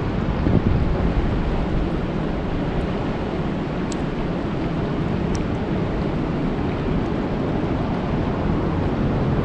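Steady rain falling on a lake: an even, dense hiss with a strong low rumble underneath and a few faint drop ticks.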